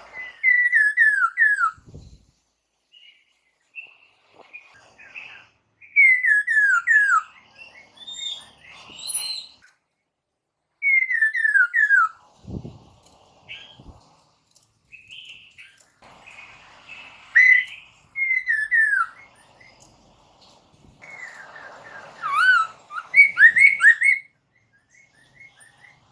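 Poksay mandarin, a laughingthrush kept as a cage songbird, singing loud whistled phrases of quickly falling slurred notes, repeated several times with softer chattering in between. Near the end comes a faster run of rising and falling notes.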